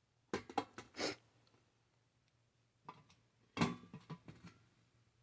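A few short clinks and knocks of silver-plated metal pieces being handled, in two brief clusters about three seconds apart.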